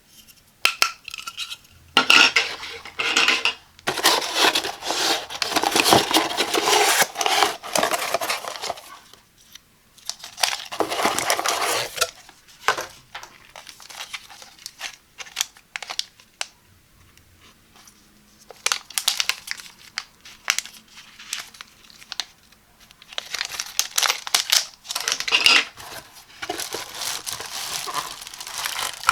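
Unboxing handling sounds: packaging and hard plastic parts being handled, rustling and clicking and knocking in bursts separated by short pauses.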